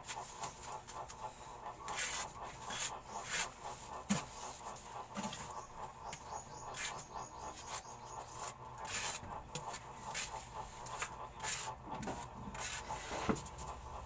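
Irregular scraping and rubbing strokes from hand work on a sink being repaired.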